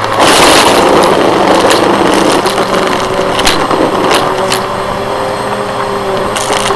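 Vacuum cleaner running with a steady motor whine under a loud rush of air, with a few sharp clicks along the way.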